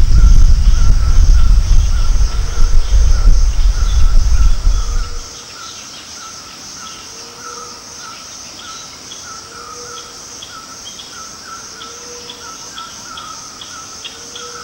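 Forest ambience: a loud low rumbling noise for about the first five seconds that cuts off abruptly, leaving a steady pulsing insect drone with repeated short bird chirps and a low call about every two seconds.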